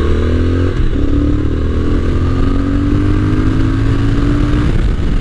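Triumph Speed Twin 1200's 1200 cc parallel-twin engine pulling hard under acceleration, its note climbing steadily in pitch, dropping once about a second in at an upshift, then climbing again before fading near the end as the throttle is eased off.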